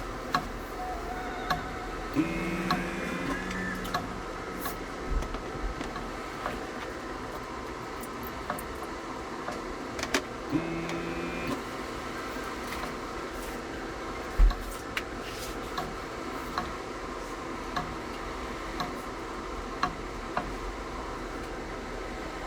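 Small airbrush compressor running steadily, with scattered clicks and two short tones about 2 and 10 seconds in.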